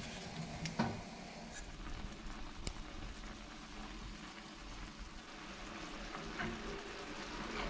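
Chicken pieces simmering and sizzling in a pan of bourbon sauce, with a steady crackle, small clicks and a thump about a second in.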